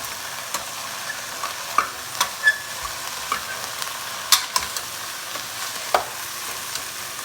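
Chopped mixed vegetables sizzling as they fry in oil in a pan, stirred with a spatula that clicks and scrapes against the pan now and then, with a sharper knock about four seconds in and another about six.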